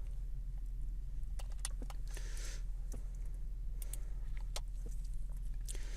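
Scattered, irregular clicks of a computer keyboard and mouse over a steady low electrical hum.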